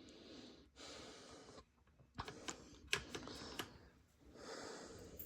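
Small plastic chainsaw air-filter knobs being handled: soft rustling with a few light clicks and taps, the sharpest about three seconds in.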